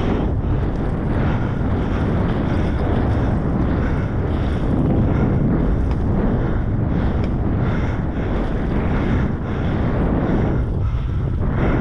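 Wind buffeting the microphone: a loud, steady rushing rumble heaviest in the low range, with a brief dip near the end.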